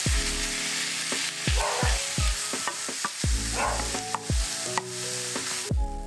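Minced meat and diced red onion frying in a pan, sizzling steadily while a wooden spoon stirs and scrapes through them. The sizzle cuts off suddenly near the end.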